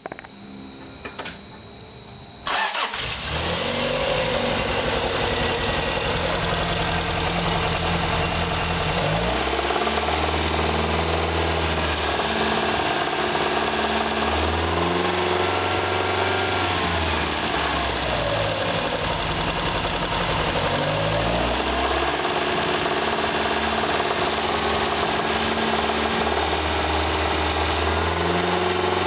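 Honda Prelude engine cranking and catching about two and a half seconds in, then idling through a loud exhaust and being revved up and down several times. Underneath runs a knocking that shows around 2–3k rpm and stays when the engine is warm; the owner can't tell whether it is piston slap or rod knock.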